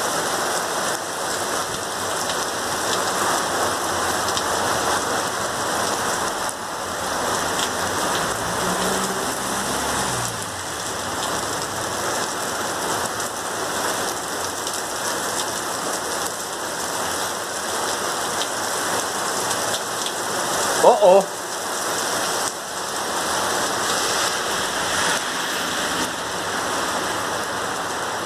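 Heavy thunderstorm rain falling steadily. About three-quarters of the way through, a brief louder pitched sound cuts in over it.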